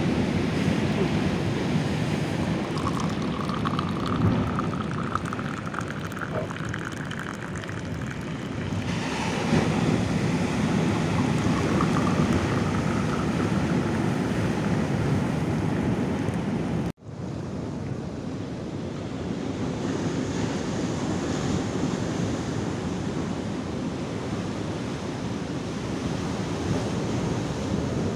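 Ocean surf washing onto the shore, with wind buffeting the microphone. The sound drops out for an instant about two-thirds of the way through.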